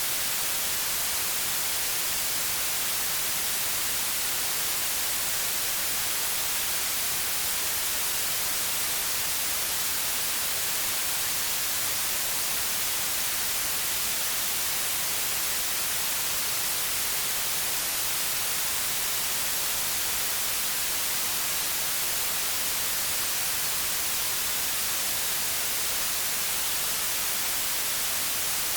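Steady electronic white noise: an even, unchanging hiss, strongest in the high frequencies.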